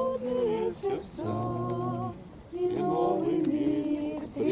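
A group of voices singing a slow Russian hymn together, holding long notes in phrases with a short breath a little after two seconds in.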